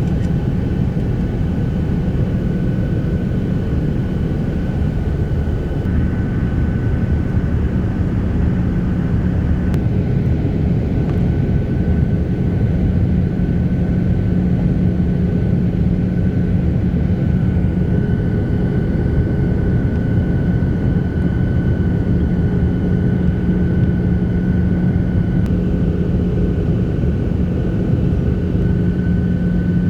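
Steady drone of an Alaska Airlines airliner in flight, heard from inside the passenger cabin: engine and rushing-air noise with a low hum and a faint higher whine, the whine growing a little stronger about six seconds in and again past the halfway mark.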